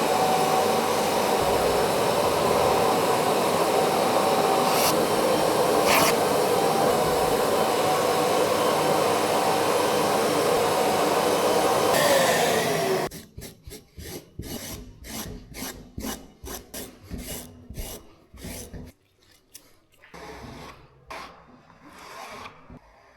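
An electric cleaning machine's motor runs steadily with a whine, then is switched off about thirteen seconds in, its pitch falling as it winds down. It is followed by a quick series of short rubbing strokes, a few a second, growing fainter near the end.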